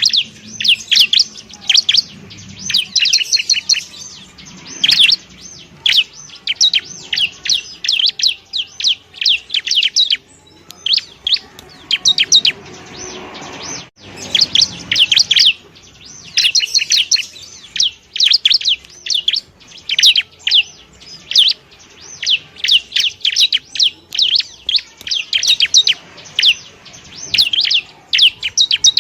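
Bar-winged prinia (ciblek) singing: rapid bursts of high, sharp chirps in quick succession, with a short lull about ten seconds in before the song resumes.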